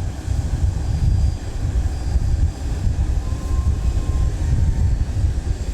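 Low, steady rumble of aircraft engines running, with a faint thin tone heard briefly midway.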